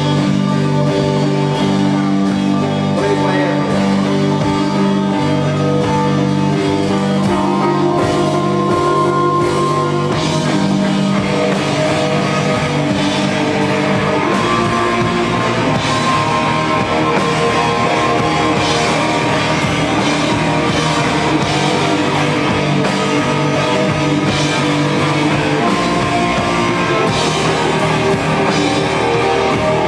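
Rock band playing live: guitar and drum kit, with the sustained low notes giving way to denser, busier playing about halfway through.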